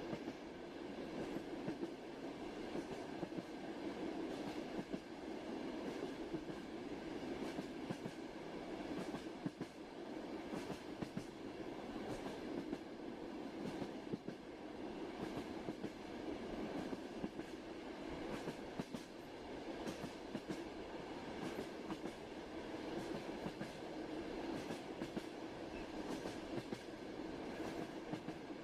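Train running on rails: a steady rumble with the wheels clicking over the rail joints.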